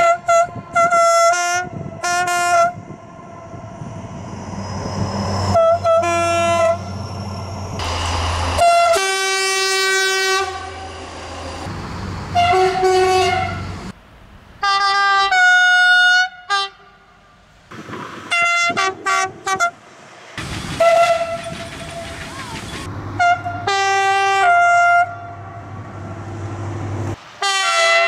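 A French locomotive's two-tone horn sounding a long series of short and long blasts, switching back and forth between a low and a high note like a tune. The train's low rumble runs underneath.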